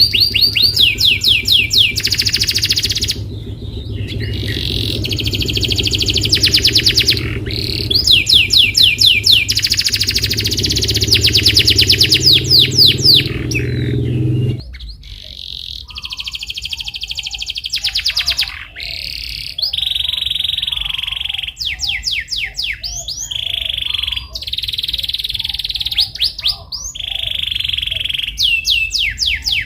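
Canary singing long, fast trills and rolls of rapid repeated chirps and sweeping notes. A low steady hum lies under the song for the first half and cuts off suddenly about halfway through.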